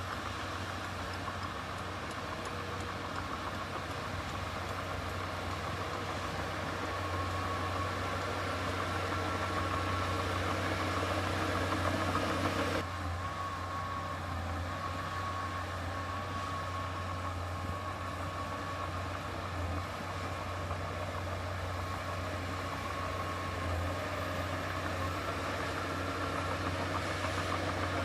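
Heavy diesel earthmoving machinery running steadily, a deep engine hum with a faint whine above it; the sound changes abruptly about halfway through.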